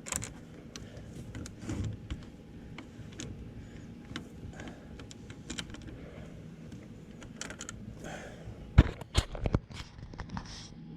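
Small clicks and rattles of a kayak seat frame and its clip fasteners being worked into the seat track by hand, with a few loud knocks about nine seconds in.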